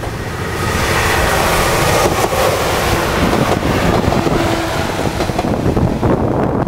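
A train passing close by: engine and wheel-on-rail noise with wind buffeting the microphone, swelling up about half a second in and staying loud.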